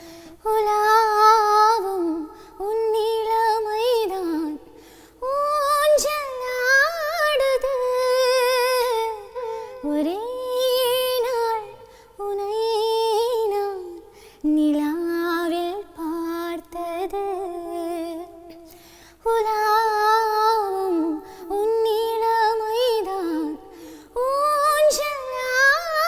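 A woman singing a Malayalam film-style song solo, with no accompaniment, in phrases of a few seconds with vibrato and short breaks between them.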